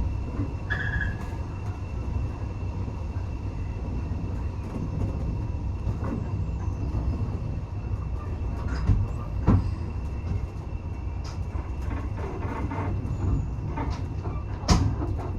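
Railway carriage running along the track, heard on board: a steady low rumble with scattered clicks and knocks from the running gear, the sharpest about nine and a half seconds in and near the end.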